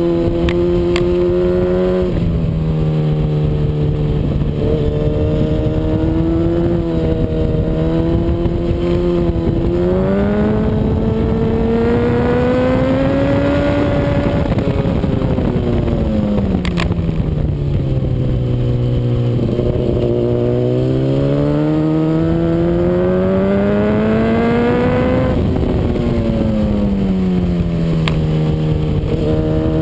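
Honda CBR RR inline-four sport bike at track speed, the engine note climbing under acceleration and dropping away while braking, several times over, over constant wind rush.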